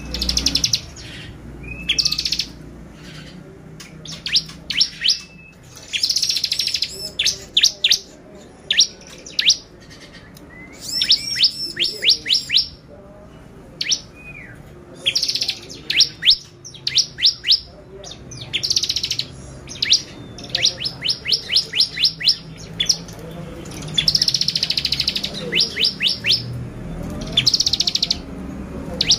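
Bar-winged prinia (ciblek) singing persistently in the vigorous 'gacor' manner: repeated phrases of rapid, sharp, high notes, each a second or two long, with short pauses between.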